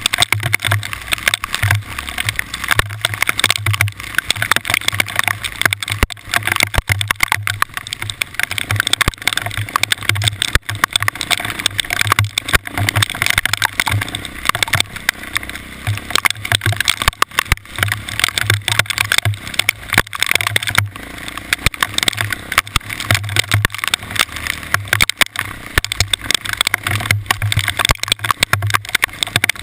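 A vehicle on the move: a low pulsing hum under a dense, continuous crackle of noise.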